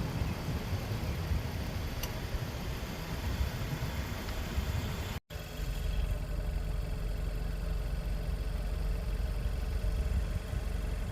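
Car engine running with road noise, a steady low rumble. It breaks off at an edit cut about five seconds in and resumes as a steadier engine hum.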